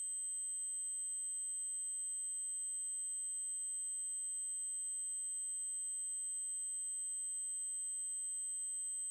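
Synthesized 8192 Hz triangle-wave tone, a steady, very high-pitched continuous tone that does not change. There is a faint glitch about every five seconds.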